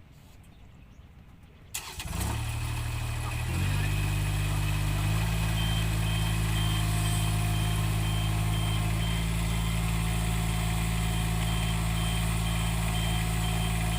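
A vehicle engine starts about two seconds in, just after a click, steps up twice in the next few seconds, and then runs steadily with an even low hum. A faint high beep repeats at a steady pace through the second half.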